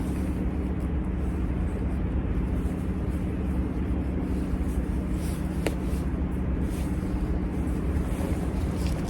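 Steady low mechanical hum like an engine running, with wind noise on the microphone and a small click about five and a half seconds in.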